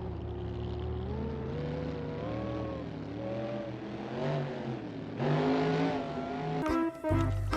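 Monster-truck engine revving, its pitch dipping and rising several times and louder about five seconds in, ending in a rapid rattling clatter.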